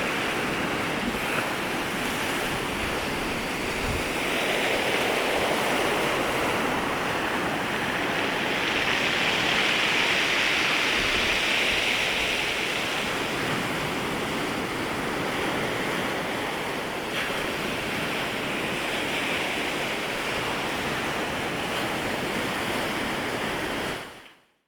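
Waves washing in at the shoreline: a continuous surf hiss that swells and eases as the waves come in and draw back. It fades out abruptly near the end.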